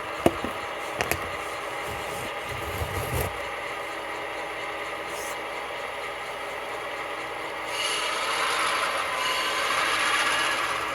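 HO-scale model diesel switchers running with a steady engine sound. A few sharp clicks and knocks come in the first three seconds, and a louder rumble swells from about eight seconds and eases near the end.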